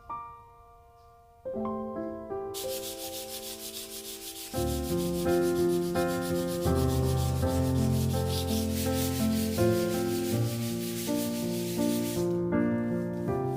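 Wood being sanded with quick, even back-and-forth strokes, starting a couple of seconds in and stopping about a second before the end, over background music.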